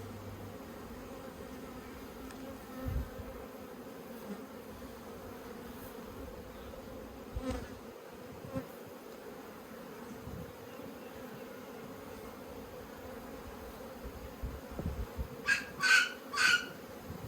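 Honeybees humming steadily around an open top bar hive. A few soft bumps break in, and near the end come three quick, sharp clicks.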